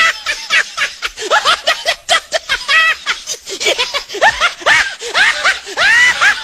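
Meme laughter sound effect: a person laughing in a quick string of short, high-pitched syllables, each one rising and falling in pitch.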